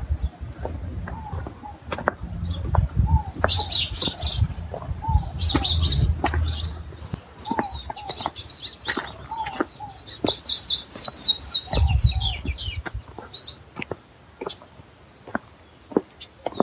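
Birds chirping and calling, with a quick run of falling notes about ten seconds in. Under them is a low rumble that dies away about twelve seconds in, and there are scattered clicks.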